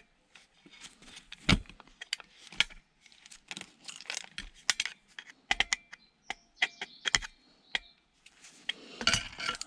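Hand tools, mostly flathead screwdrivers, being rummaged through and picked up: irregular metal clicks and clinks, some with a short ring, and a denser rattling clatter near the end.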